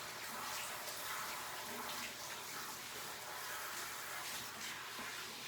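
Water running steadily into a dog-bathing tub, a continuous hiss of spray during the dog's wash.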